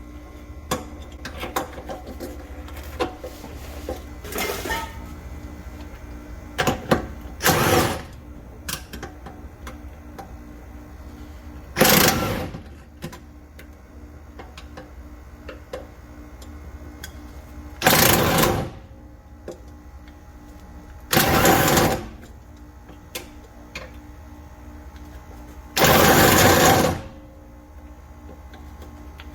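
A handheld power tool run in six short bursts, each about half a second to a second long, with the last one the longest, on a shock bolt stuck fast in the boot.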